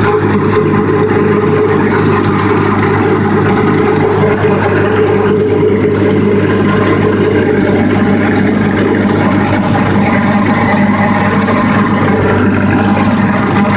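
Tractor engine running steadily under load while pulling a bush hog rotary cutter through a hay field, an even, unbroken drone.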